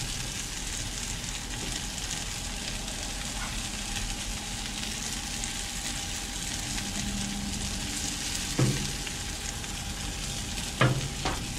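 Sliced baby bella mushrooms sizzling steadily in oil on a Blackstone griddle's flat steel top. A metal spatula scrapes and clacks against the griddle a few times near the end as the mushrooms are turned.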